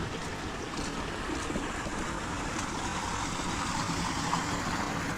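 Steady heavy rain, a continuous hiss with faint scattered drop ticks.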